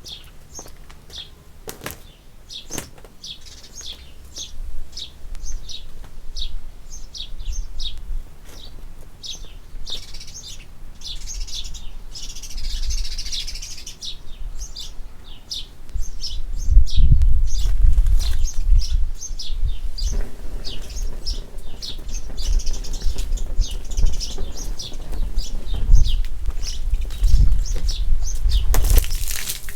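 A small bird chirping over and over, about two short high chirps a second. About halfway through, a loud low rumble joins in.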